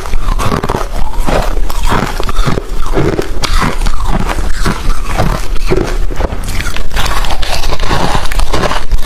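Close-miked crunching of hard refrozen crushed ice being bitten and chewed, a steady run of loud, rapid crunches.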